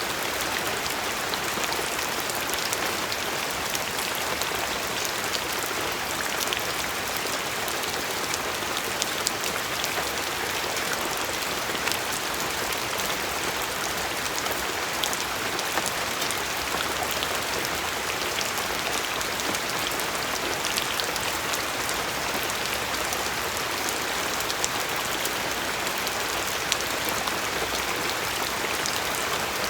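Steady rain falling, a dense hiss of drops with many small individual drop ticks.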